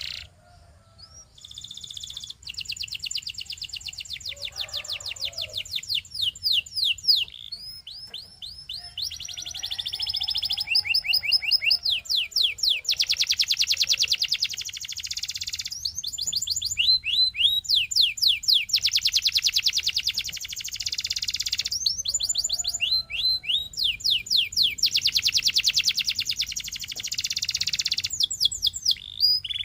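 Canary singing a long, continuous song of high-pitched rapid trills and rolls. Runs of very fast repeated notes alternate with slower, sweeping notes, and the phrase changes every second or two.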